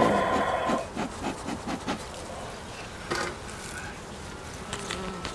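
Wooden beehive parts scraping and knocking as they are shifted and worked, with a squeaky scrape in the first second and scattered knocks after it. Honeybees buzz around the open hive.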